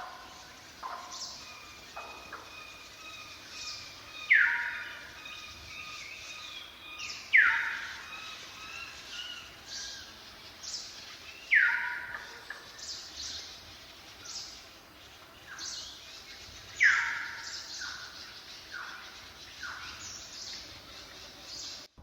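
Several birds singing: one repeats a loud call that slides downward in pitch every three to five seconds, over a mix of shorter, higher chirps and whistles. The sound cuts off abruptly near the end.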